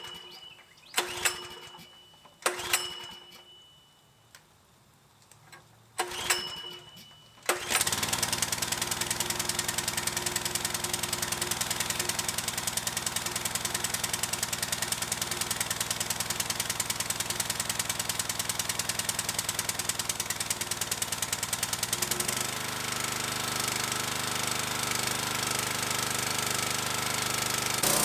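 Kohler-engined pressure washer being pull-started after sitting unused: several short pulls that cough and die away, then the engine catches about seven and a half seconds in and runs steadily. About 22 seconds in its running note shifts. It runs with the hose off so the pump can clear out junk.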